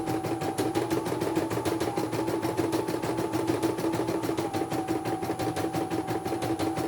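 Computerized embroidery machine stitching: a fast, even run of needle strokes over a steady motor hum, which dips and rises slightly in pitch a few times.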